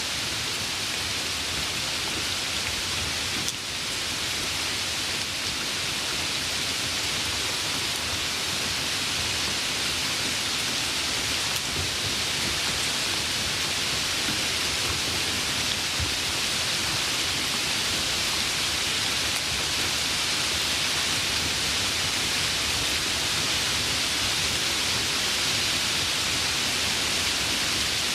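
Steady rainfall, a dense even hiss of drops.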